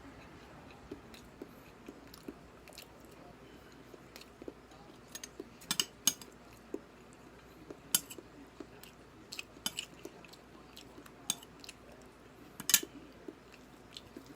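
Close-up eating sounds: chewing and biting with irregular sharp clicks and now and then a clink of cutlery, the loudest click about two seconds before the end.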